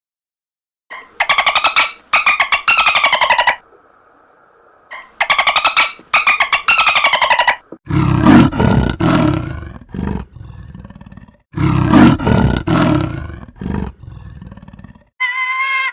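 Animal calls: two bouts of rapid, pulsed calls that fall in pitch, then a loud, low, rough roaring growl in two main bursts, and a short pitched call near the end.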